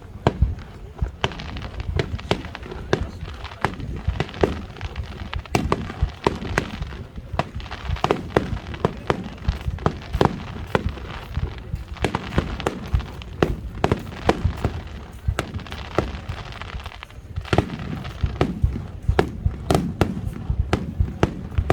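Aerial firework shells bursting in a rapid, dense barrage: many sharp bangs a second over a continuous low rumble, easing briefly about three-quarters of the way through.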